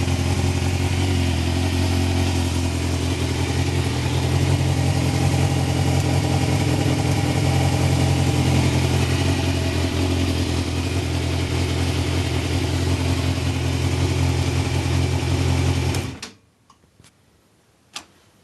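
Yamaha Thundercat's carbureted four-cylinder engine idling steadily, sounding healthy on its first run after winter storage, then shut off about sixteen seconds in. A couple of faint clicks follow in the quiet.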